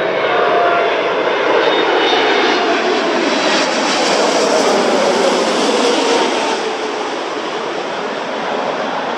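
Jet engines of a Boeing 747-8 freighter (four GEnx engines) passing at high power on a go-around: a broad rush with a whine that falls in pitch as the aircraft goes by. Loudest about four to six seconds in, easing after about seven seconds.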